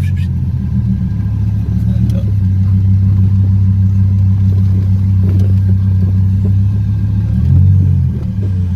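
Hennessey-modified Dodge Viper's V10 engine running at light throttle while the car is driven, a deep steady drone that shifts in pitch about two seconds in and again near the end.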